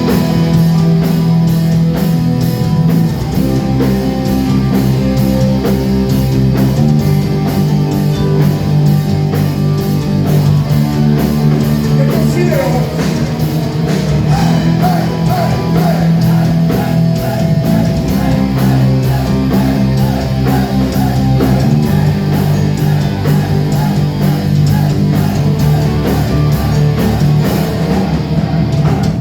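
Live rock band playing loudly, with guitars and a steady, fast drum beat.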